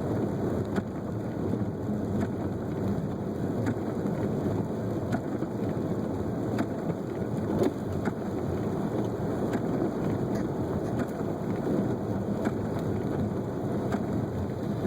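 Steady rumble and hiss of a car driving on a snowy, slushy road, heard inside the cabin, with faint scattered ticks.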